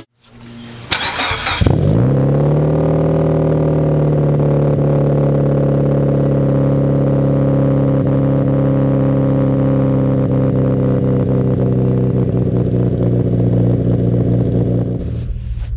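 Mitsubishi Lancer Evolution VIII's turbocharged 2.0-litre 4G63 four-cylinder being started: a brief crank, then it catches about two seconds in, its pitch rising and settling into a steady, loud idle heard at the large single exhaust tip.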